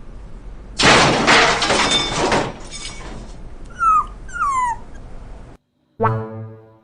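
A dog gives two short falling whimpers after a loud rough burst of noise. After a brief cut to silence, a cat's drawn-out meow begins near the end.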